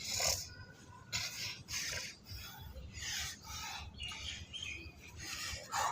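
A person's sharp, forceful breaths during exercise, repeated roughly once a second.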